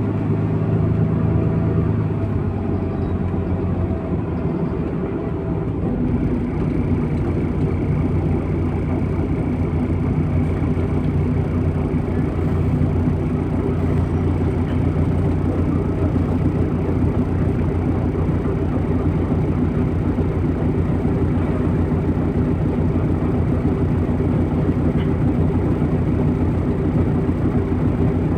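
MAZ-103.469 city bus's diesel engine running steadily with road noise, heard from inside the cabin during the ride; its engine note changes about six seconds in.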